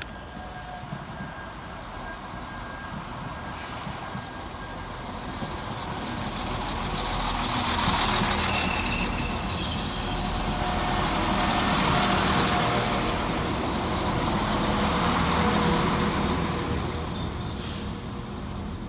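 Northern Class 195 diesel multiple unit arriving along the platform and running past: engine and wheel noise builds as it draws level, with thin high-pitched wheel squeals from the curve about halfway through and again near the end.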